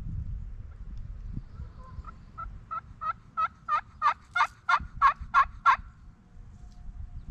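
Wild turkey hen-style yelping: a run of about a dozen yelps, about three a second, growing louder as the series goes on. A low wind rumble runs underneath.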